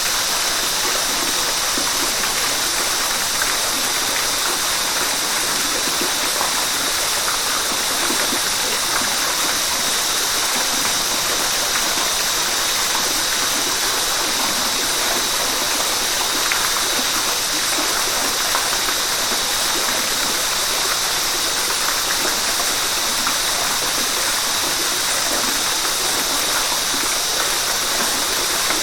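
River water flowing, a steady unbroken hiss of moving water strongest in the higher pitches.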